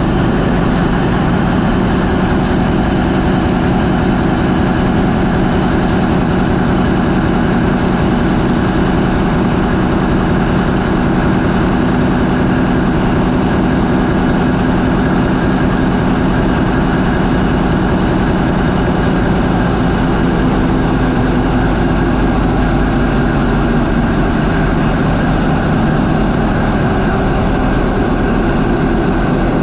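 MAN 20V28/33D STC marine diesel, a 20-cylinder V engine, running steadily at idle of about 400 RPM: a loud, even, deep engine drone with no change in speed.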